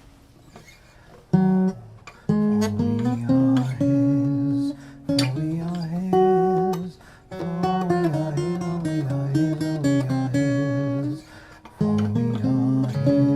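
Acoustic guitar playing chords, with brief pauses between phrases.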